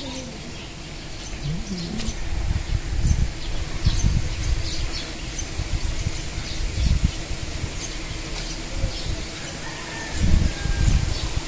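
Small birds chirping: many short, high chirps scattered throughout. Several loud low rumbling bursts are the loudest sounds, with the biggest near the end.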